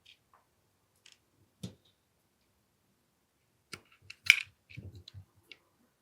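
Small clicks and knocks of AAP-01 airsoft pistol parts being handled and fitted back together, a few scattered at first, then a quicker run of clicks about four seconds in with one sharper snap.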